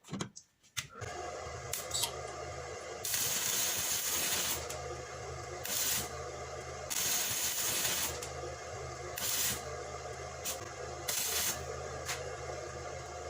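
Stick (electrode) arc welding on steel: the arc strikes about a second in and runs with a steady crackling hiss that swells louder several times, over a low steady hum.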